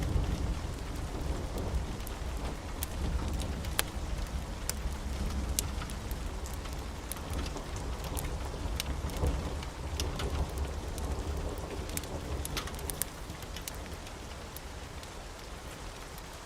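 Steady rain with a low rumble of thunder that slowly dies away over the last few seconds. Sharp crackles and pops from a fireplace are scattered throughout.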